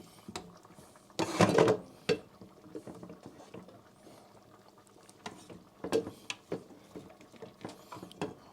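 Serving spoon scooping rice out of a pot: scraping against the pot with a short squeaky scrape about a second in, then scattered clicks and knocks of the spoon on the pot and plate.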